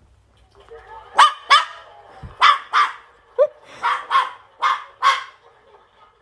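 Barking: about ten short, loud barks, mostly in quick pairs.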